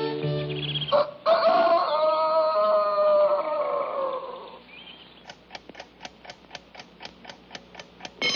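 A cartoon rooster crowing once, a single long call of about three seconds that drops in pitch at its end, coming in suddenly after music. It is followed by a faint, even run of clicks, about four or five a second.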